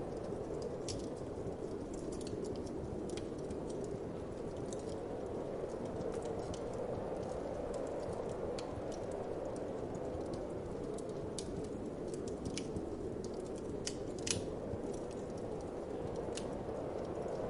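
Wood fire crackling in a fireplace, with irregular sharp snaps and pops (one louder pop about 14 seconds in), over a steady low rush of winter wind.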